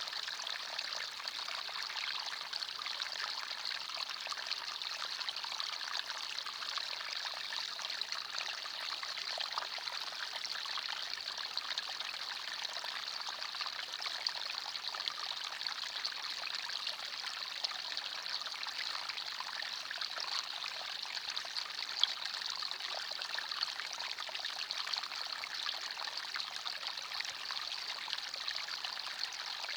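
Forest stream flowing: a steady rush of water with many fine splashes.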